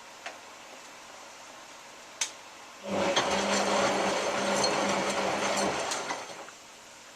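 Hotpoint 9534A washing machine during a hot maintenance wash: a relay clicks, then the motor turns the drum for about three seconds, a steady hum with water and laundry sloshing, and stops.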